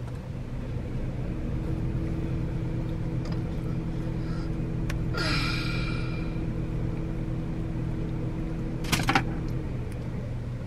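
Car engine idling steadily, heard from inside the cabin. A brief hiss comes about five seconds in, and a short clatter of sharp clicks near the nine-second mark.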